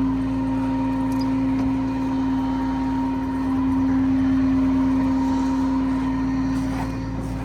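Diesel engine of a 2006 Peterbilt 335 truck idling: a steady hum with a low rumble.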